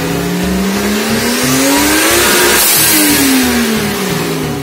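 Toyota 1JZ-GTE turbocharged straight-six revved from idle in one slow blip: the revs climb steadily for about two and a half seconds, a brief hiss comes at the top, then the revs fall back toward idle. The engine is being tuned.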